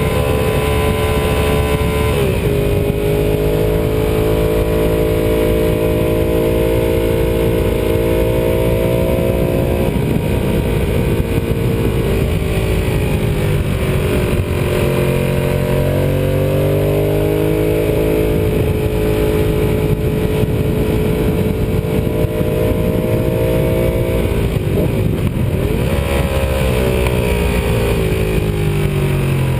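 Ducati 748R's 90-degree L-twin engine running under way at a mostly steady pitch, against heavy rushing wind noise. A few times the note dips briefly and then climbs back, as the throttle is eased and reopened or the gear changes.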